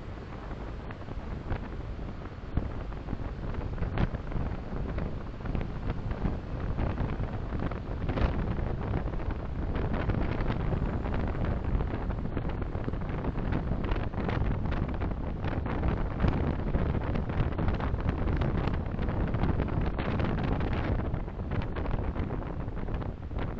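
Steady road and wind noise of a car being driven, picked up by a dashcam, growing louder over the first ten seconds, with many small ticks and knocks throughout.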